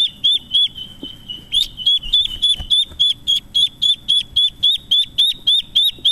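A bird calling: a fast run of identical short, high, hooked chirps, about three to four a second, with a brief held whistled note about a second in.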